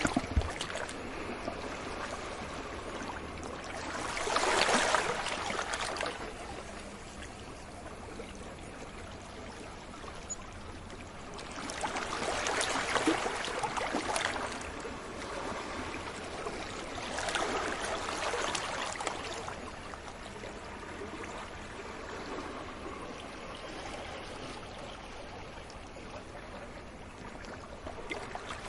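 Sea waves breaking and washing on a beach, a steady wash of water with three louder surges about every five to seven seconds.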